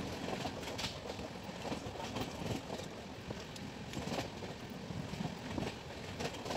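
Passenger train coach running at speed, heard from its open door: a steady rumble with irregular sharp clacks as the wheels pass over rail joints and points.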